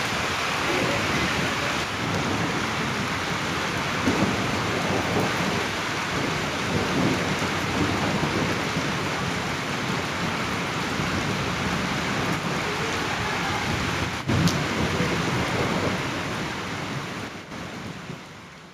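Heavy rain pouring down steadily, with thunder rumbling several times: about four seconds in, again around seven seconds, and a sharper crack of thunder about fourteen seconds in. The sound fades out near the end.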